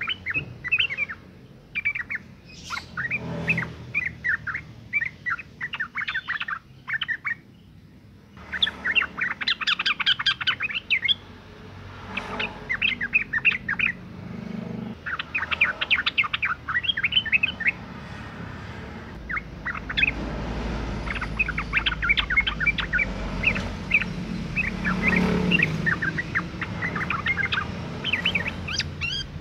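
Female sooty-headed bulbul calling: repeated phrases of quick, bright chirping notes with short pauses between them. This is the in-season female call that bird keepers play to draw an answer from males.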